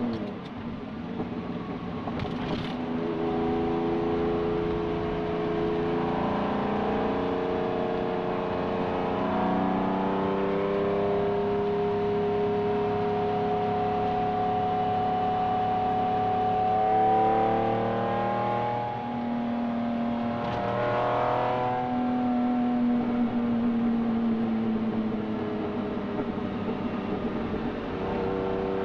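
Lamborghini Diablo V12 with a race exhaust, heard from inside the cabin while driving. The engine note climbs slowly and drops twice as gears change, about a third and two-thirds of the way through. Later it gives a quick rev and then falls away as the car slows.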